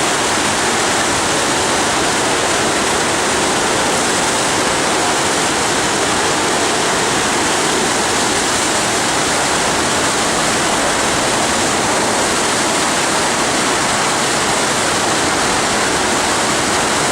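FlowRider wave simulator's pumped sheet of water rushing continuously over the ride surface: a loud, steady rushing noise.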